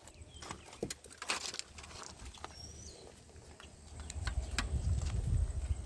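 Scattered light rustles and clicks, with a low rumble building over the last two seconds.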